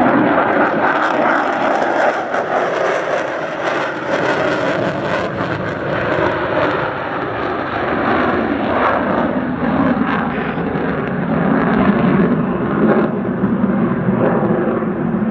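Lockheed Martin F-35A's single Pratt & Whitney F135 afterburning turbofan, loud and steady as the jet makes a low approach.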